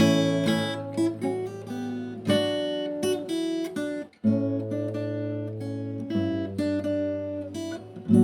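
Background music of a plucked acoustic guitar playing a run of ringing notes, with a brief break about four seconds in.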